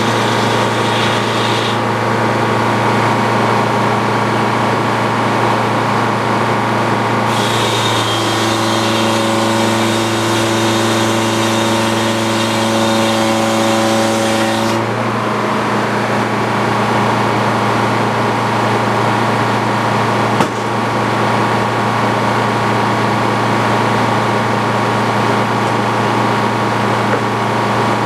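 Antique Frick sawmill running steadily on its engine power. About a third of the way in, a higher whine and hiss join for roughly seven seconds, then drop away. A single sharp knock comes about two-thirds of the way through.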